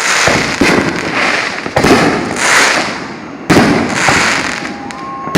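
Fireworks going off in quick succession: several sharp bangs about one to two seconds apart, each trailing off in a crackle that fades away.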